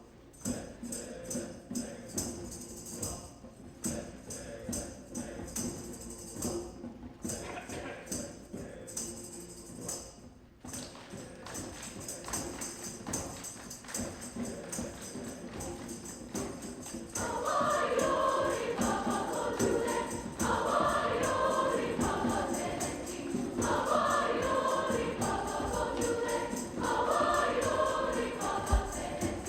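A holiday concert piece: a quieter instrumental passage with a steady beat, then a school choir comes in singing loudly a little over halfway through.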